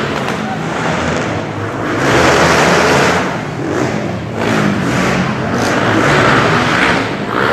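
Motocross dirt bikes racing, their engines revving up and down in repeated swells.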